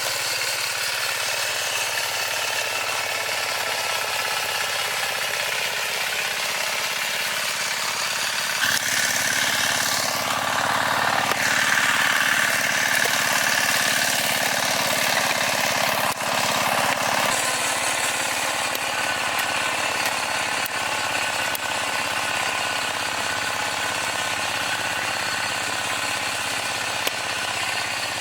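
Farm machine's engine running steadily. It grows louder and busier about nine seconds in, then settles back to a steadier note after about seventeen seconds.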